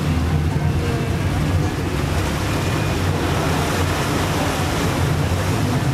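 Tour boat's engine running steadily as a low hum, with water and wind noise over it.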